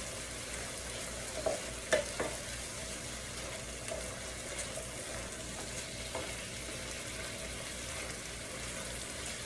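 Chicken and vegetables frying with a steady sizzle in an electric skillet, stirred with a wooden spatula that taps and scrapes the pan a few times, as the last moisture cooks off.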